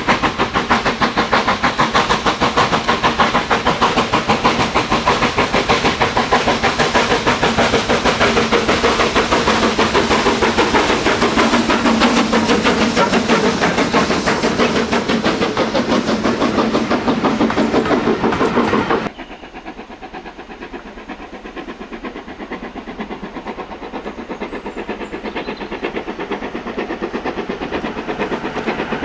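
Steam-hauled train running by, with a fast, steady rhythm of beats. About two-thirds of the way through, it cuts suddenly to a quieter train sound.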